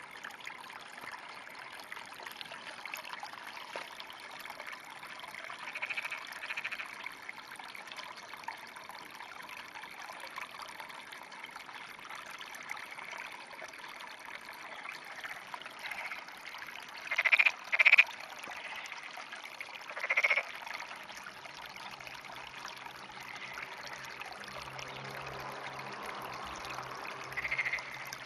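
Frogs calling in a flooded rice paddy: a handful of short croaks, the loudest a quick pair about two-thirds of the way through, over a steady trickle of water.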